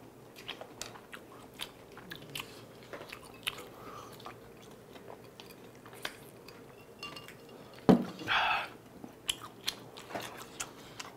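Close-miked mouth sounds of chewing spicy cheese-covered tteokbokki rice cakes: soft wet smacks and small clicks. About eight seconds in there is one sharp knock, followed by a short hiss-like rush.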